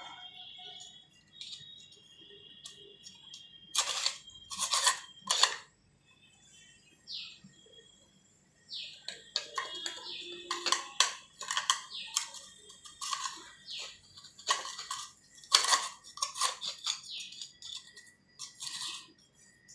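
Irregular clicks, taps and scrapes of hard parts being handled during a toilet flush-valve repair, coming in two clusters with a quiet gap between them, and a few short high chirps mixed in.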